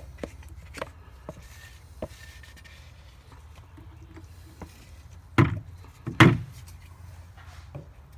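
Containers being handled while a two-part foam is mixed: scattered light clicks and knocks, with two louder thumps about five and six seconds in.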